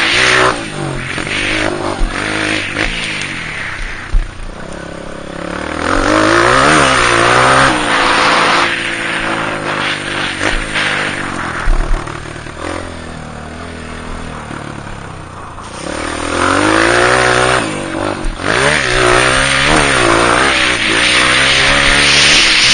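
Honda CRF230's single-cylinder four-stroke dirt bike engine being ridden hard, revving up and dropping back again and again as the throttle opens and closes through gear changes and corners. The engine quietens twice for a few seconds before revving up again, with a few short knocks.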